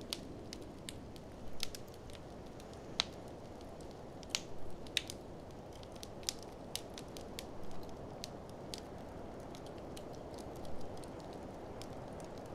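Wood fire in a fireplace crackling, with sharp irregular pops and snaps, a few louder clusters of them, over a steady low rushing background.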